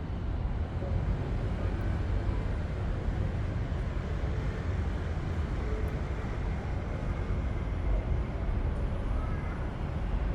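Keikyu New 1000 series train pulling into the station platform: a steady, heavy rumble with no clear rise or fall.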